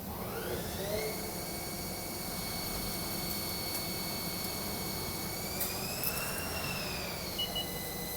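CNC lathe spindle whining up to speed over the first second, then running steadily; a little past the middle its pitch rises and falls back again as the speed changes.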